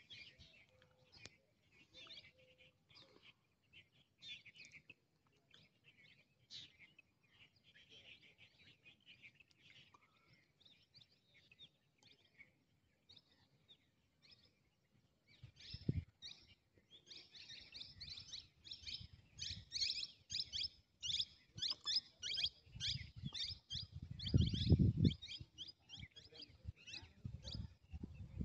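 Small birds chirping, sparse at first and then a busy run of rapid, repeated high chirps from about halfway on. A low rumble comes in twice in the second half, loudest near the end.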